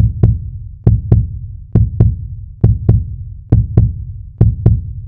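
Heartbeat sound effect: deep double thumps, lub-dub, repeating steadily a little more than once a second.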